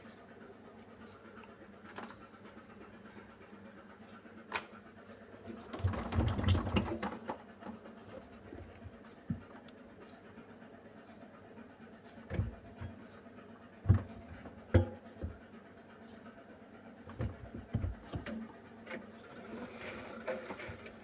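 Beko WMY81283LMB2 washing machine with a curtain load, running with a low steady hum and irregular thumps and knocks, the loudest a rumbling clunk about six seconds in.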